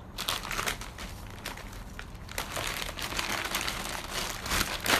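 Packaging of rice-cracker snacks crinkling as it is handled, with irregular crackles throughout and a louder crackle near the end.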